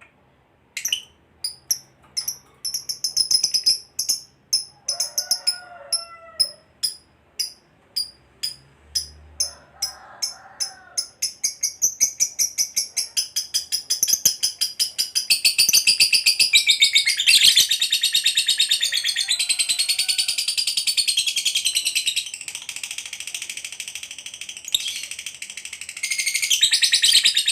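Lovebird's long chattering song (ngekek panjang): high-pitched separate chirps that come faster and faster from about a second in, running together about halfway through into one long, rapid, continuous chatter that grows louder again near the end.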